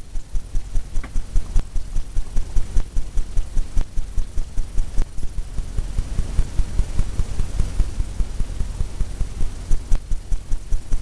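Paint being worked onto a stretched canvas in quick, even strokes: a run of dull low thumps, about five a second.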